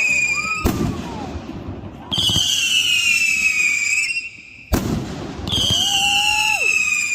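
Consumer fireworks cake firing whistling shots. Each shot is a slightly falling whistle lasting about two seconds, followed by a sharp bang. Three whistles are heard, with bangs under a second in and just before five seconds.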